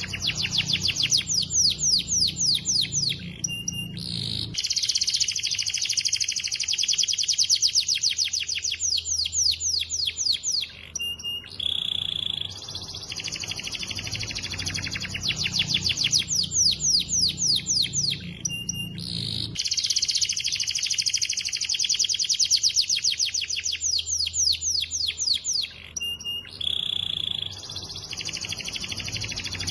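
Domestic canary singing hard: long trills of fast repeated notes, broken now and then by a short, steady whistled note. The same run of phrases comes round again about every 15 seconds.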